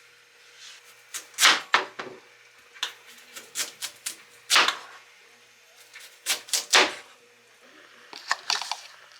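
An irregular series of about a dozen sharp clacks and knocks of hard objects, some in quick pairs, with short quiet gaps between them.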